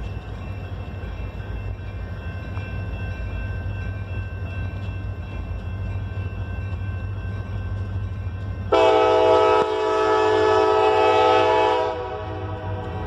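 Diesel freight locomotive passing with a steady low rumble, then sounding its chime air horn about nine seconds in for roughly three seconds, loudest in the first second and cutting off sharply.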